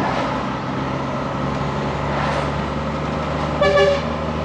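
ERF lorry's Cummins M11 diesel running steadily on the road, heard from the cab, with a short, loud air-horn blast about three and a half seconds in.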